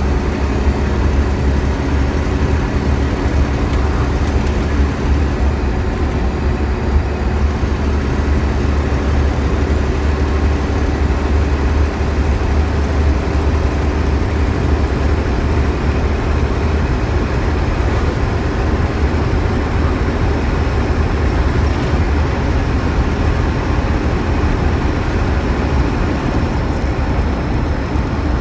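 Scania K112CL coach's diesel engine running at a steady speed: a low, even drone with steady engine tones and no revving.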